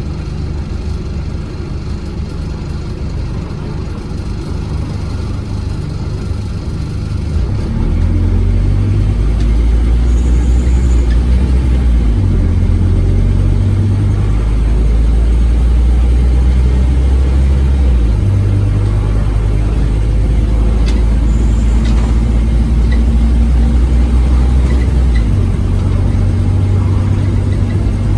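Scania OmniCity bus engine heard on board, running quietly at first and then pulling hard from about seven seconds in. Its loud low drone shifts in pitch in steps several times as the bus accelerates.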